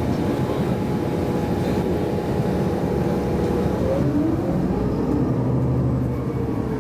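Bombardier CRJ-900's twin GE CF34 turbofan engines running, a steady low rumble with steady whining tones and a brief shifting tone about halfway through.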